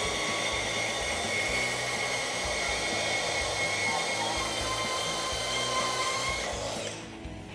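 Milwaukee M18 FUEL brushless cordless deep-cut bandsaw running steadily as its blade cuts through a metal pipe, a constant whine over the rasp of the cut. The saw stops near the end.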